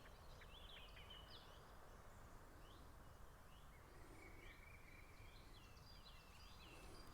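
Faint birdsong from several small birds: short chirps and calls throughout, with a brief steady trill about four seconds in, over low steady background noise.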